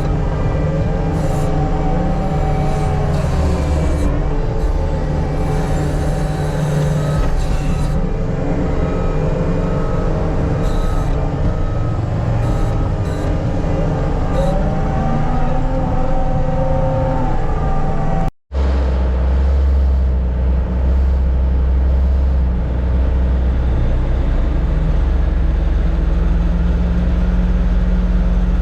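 Diesel engine of heavy earthmoving equipment running, its pitch wavering under load in the first part. It cuts out for an instant about eighteen seconds in, then a steadier, deeper engine drone follows.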